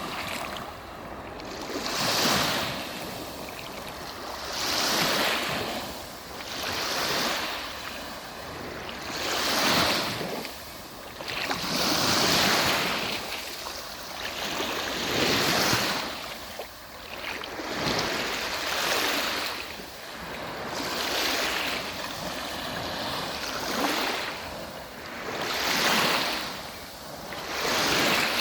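Black Sea waves breaking and washing on the shore. The surf surges and recedes about every two to three seconds.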